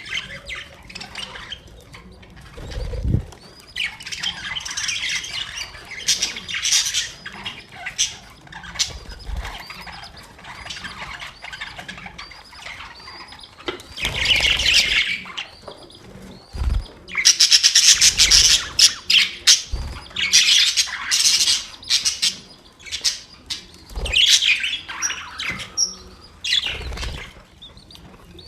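Budgerigars chirping and chattering in quick, warbling runs of high chirps, with louder bursts of squawking calls about halfway through. A few short, dull thumps are heard among the calls.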